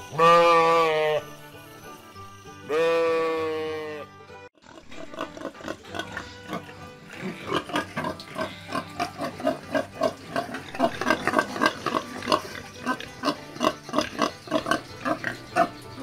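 Two long sheep bleats, one in the first second and one about three seconds in. From about five seconds on, a pen of domestic pigs grunting: many short calls overlapping, growing denser toward the end.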